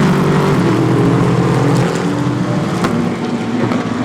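GT3 race car engines passing at steady revs. The loudest car is in the first two seconds, after which a quieter engine note carries on.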